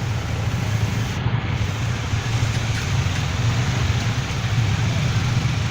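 Bajaj Dominar motorcycle underway at steady speed: a constant low engine hum under an even rush of wind and road noise.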